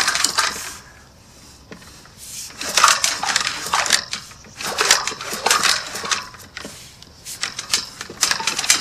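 Sewer inspection camera and its push cable scraping and clattering as they are worked through a clay sewer pipe, in irregular bunches of rattles and knocks.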